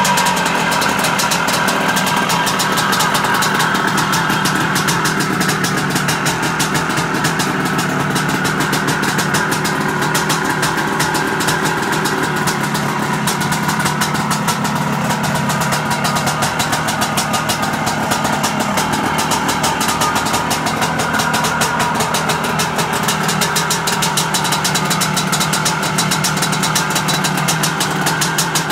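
Two-stroke single-cylinder engine of a restored 1975 Aermacchi Harley-Davidson SX250 motorcycle idling steadily.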